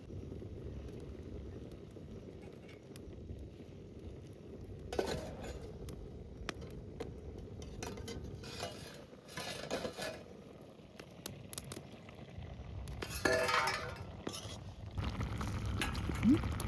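Metal cookware and utensils clinking and knocking at irregular intervals, some strikes ringing briefly, as pots and a ladle are handled during cooking.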